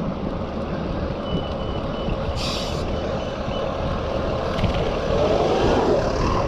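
Wind rushing over the microphone and tyre noise from a bicycle on the move, swelling louder near the end. A faint high electronic beeping sounds for a couple of seconds, starting about a second in.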